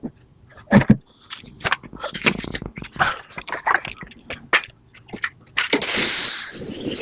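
Irregular knocks, clatter and scraping from work on a floor-standing air conditioner being cleaned. A loud, steady spraying hiss starts near the end.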